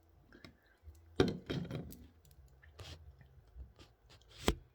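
A few scattered clicks and knocks on hard surfaces, with two sharper knocks about a second in and near the end.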